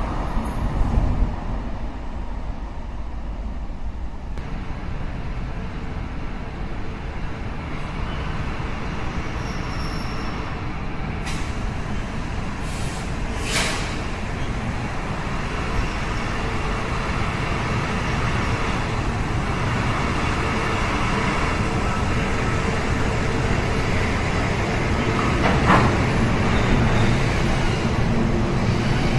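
Taiwan Railway E200-class electric locomotive hauling a freight train slowly through an underground station: a steady rumble of wheels on rail that grows louder as it approaches and the cars roll past, with a few short sharp hisses near the middle.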